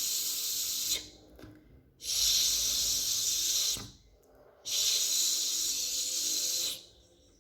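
A woman voicing the 'sh' sound of the Portuguese letter X, a long hushing 'shhh'. It comes three times with short pauses between: the first ends about a second in, and the next two each last about two seconds.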